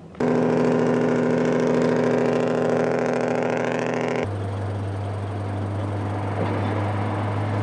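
Vehicle engines running steadily in street traffic, in two clips cut together: first a hum with several steady tones, then about four seconds in an abrupt change to a deeper, stronger drone.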